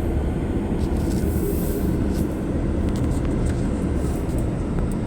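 Steady low road and engine rumble of a car driving down a winding canyon road, heard from inside the cabin.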